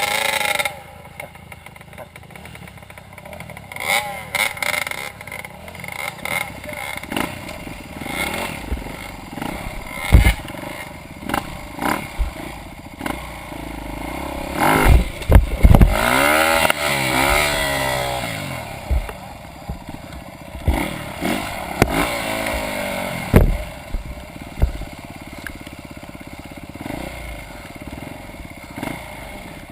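Off-road motorcycle engine revving up and down in uneven bursts, with scattered knocks and clatter. The hardest revving is about halfway through.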